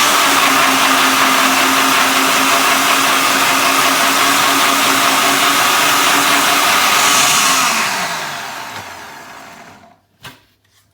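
Food processor motor running steadily at full speed, blitzing onion, garlic, ginger and chilli into a paste. About eight seconds in it is switched off and winds down, falling in pitch and fading over two seconds, followed by a couple of light clicks.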